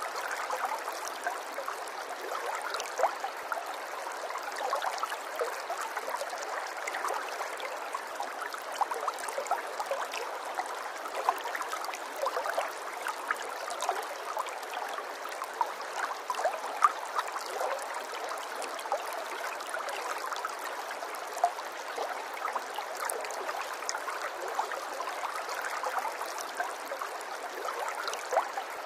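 Running water in a steady trickling flow, full of small bubbling splashes.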